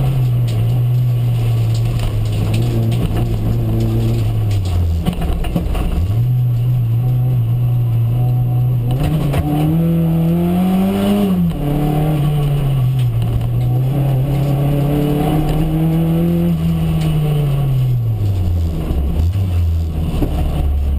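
Volkswagen Golf Mk1's four-cylinder engine heard from inside the cabin, its pitch climbing and falling as the car accelerates hard and lifts off. Revs drop sharply about five seconds in and again near the end, where the engine settles to a lower, steady note.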